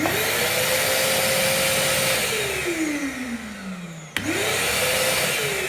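Makita VC2512L construction vacuum cleaner switched on: its motor whines up to speed with a loud rush of air, runs about two seconds, then is switched off and winds down with a falling whine. About four seconds in it is switched on again, spins up and starts winding down once more near the end.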